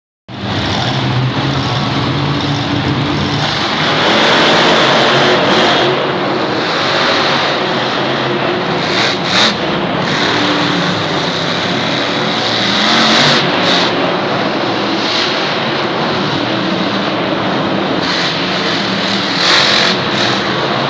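Monster truck supercharged V8 engines running and revving, loud throughout. There are a few brief louder surges, around 9, 13 and 19 seconds in.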